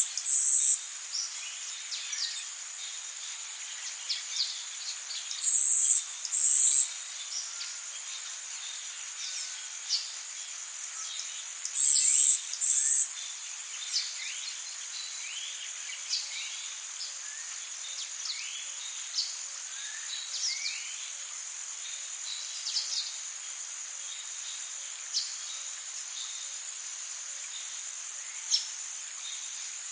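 Tropical rainforest ambience: a steady high insect drone over a hiss of rain, with many short rising chirps throughout. A loud high buzzing call sounds in pairs three times, about every six seconds, in the first half.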